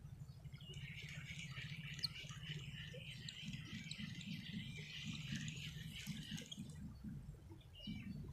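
Small birds chirping in a dense, chattering run of high calls for about six seconds, over a faint low rumble.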